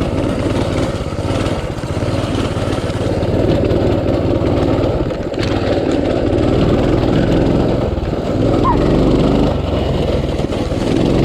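Small pit bike engine running under load as the bike is ridden. The throttle rises and eases off, with brief dips in loudness about two and five seconds in.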